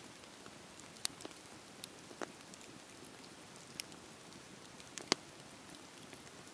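Fireplace fire crackling: a steady soft hiss with scattered sharp pops, the loudest about five seconds in.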